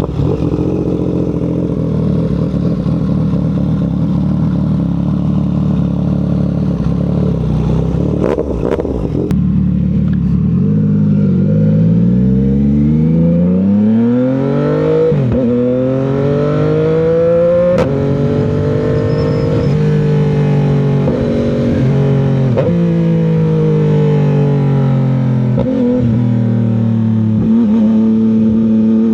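CFMOTO 675's three-cylinder engine running steadily for about ten seconds, with a few clicks. Then it revs up repeatedly, each rise in pitch cut by a sharp drop as it shifts up through the gears under acceleration.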